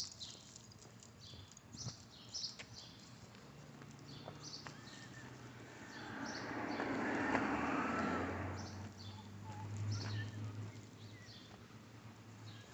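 Steady patter of footsteps and dogs' paws on pavement during a walk, with a lawn mower engine running as a low hum in the background. A louder rush of noise builds and fades around the middle.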